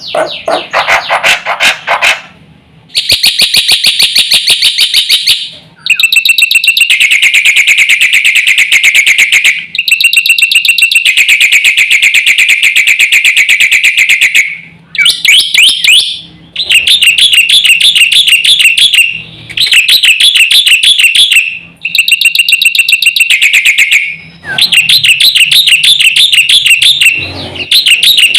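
Black-winged myna (jalak putih) singing loudly and continuously: long bursts of rapid, pulsing chatter and whistled phrases lasting a few seconds each, broken by short pauses.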